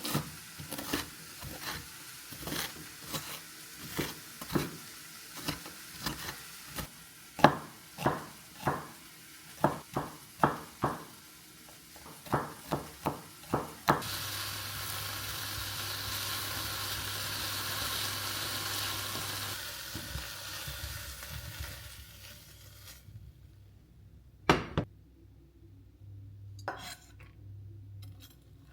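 Kitchen cooking sounds: a run of sharp knocks from utensils against cookware, about one or two a second, then about eight seconds of steady sizzling hiss, ending in a few scattered clicks.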